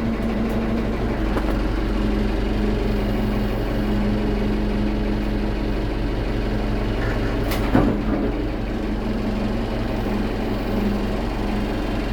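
JCB 3CX backhoe loader's diesel engine idling steadily after a cold start, with a single sharp knock about eight seconds in.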